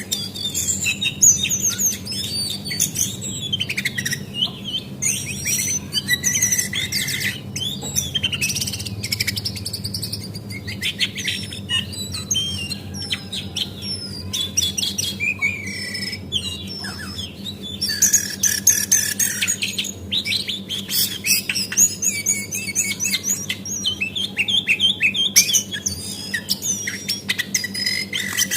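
Female cingcoang (jongkangan coklat) calling: a dense run of quick high chirps, trills and short whistled glides, busiest in the second half. A faint steady hum runs underneath.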